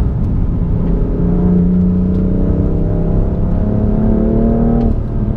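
BMW M4's twin-turbo straight-six accelerating hard, its pitch climbing steadily for about four seconds, then falling away suddenly near the end, over a steady low rumble.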